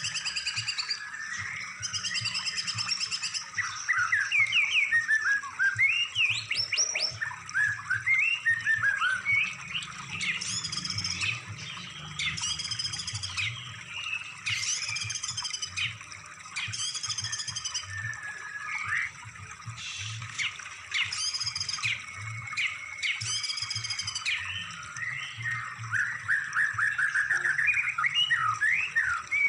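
Recorded songbird song used as a masteran training track for cage birds. Quick rising whistles and trills alternate with a short phrase repeated about once a second through the middle, over a faint low hum.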